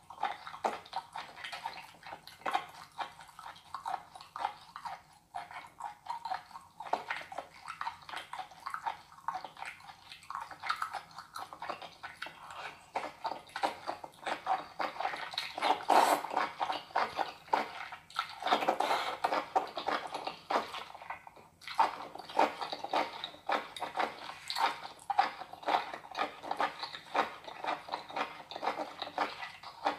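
Close-miked wet chewing and smacking of raw octopus, a dense run of sticky, squelching mouth clicks that grows busier and louder in the middle.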